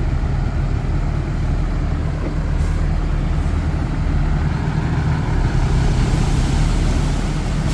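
Heavy diesel earthmoving machinery running steadily, a deep engine drone with a hiss on top that grows a little louder about five seconds in.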